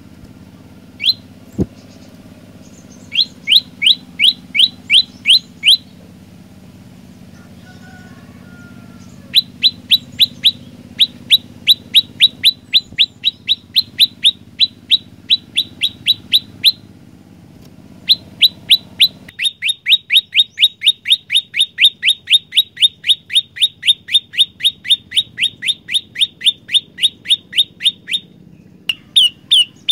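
Olive-backed tailorbird singing in runs of loud, sharp repeated notes, about three a second, with a long faster run of about five a second in the last third.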